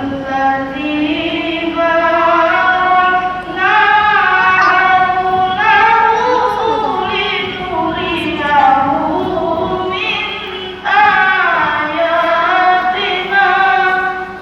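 A young female reciter chanting Quran verses in the melodic tilawah style, in a high, shrill voice, holding long ornamented notes that glide up and down. The pitch climbs to a peak midway, and a fresh phrase starts with a sudden rise about eleven seconds in.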